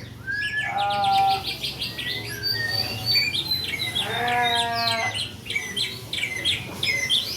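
Murai batu (white-rumped shama) singing a continuous run of fast, high notes, broken twice, about a second in and about four seconds in, by a longer, lower drawn-out call.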